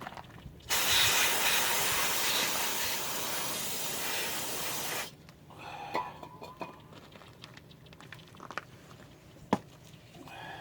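Aerosol can of brake cleaner sprayed in one long hiss of about four seconds, starting and stopping abruptly, to wash rust and grime off a brake caliper slide pin. Afterwards come light taps of handling the part and one sharp click.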